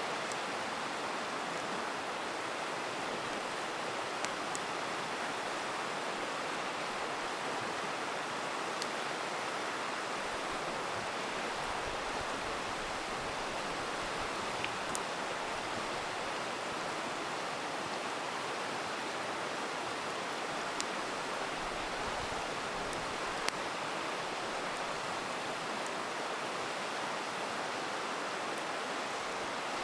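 A river rushing steadily, with a handful of sharp, scattered pops from a crackling campfire.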